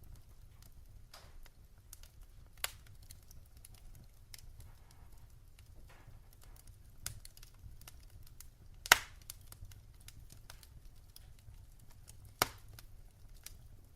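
Wood fire crackling in a fireplace: irregular sharp pops and snaps over a low steady rumble, with three louder pops, the loudest about nine seconds in.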